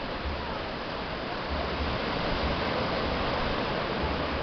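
Surf washing on the beach: a steady rushing noise with a recurring low rumble.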